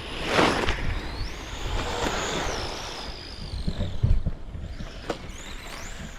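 Electric motor and drivetrain whine of a vintage Schumacher Bosscat RC buggy, rising and falling in pitch as it drives around the dirt track. There are a couple of short thumps later on.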